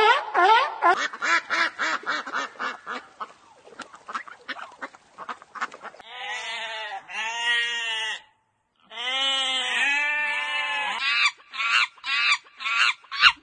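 Animal calls: a fast series of short pitched calls, then two long drawn-out calls, then a few short calls again near the end.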